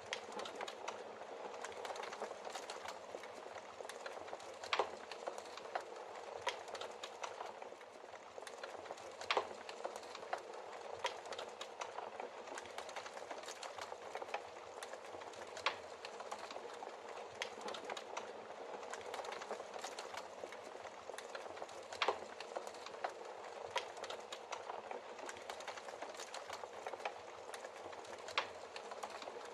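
Wood logs burning in a fireplace: a steady crackling hiss full of small snaps, with a sharper, louder pop every several seconds.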